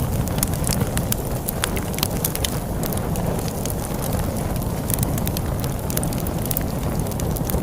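Wood fire crackling with frequent sharp irregular pops and snaps, over a steady low rumble of storm wind.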